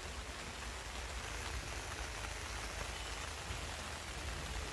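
Steady heavy rain falling and hitting a surface, with a low rumble underneath.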